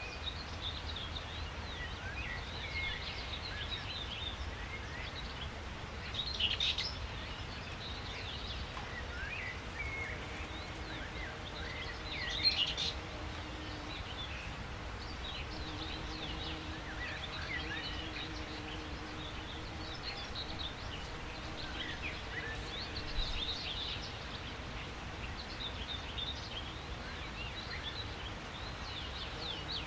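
Several small songbirds chirping and twittering in quick high calls throughout, over a steady low background rumble, with a few louder bursts of song.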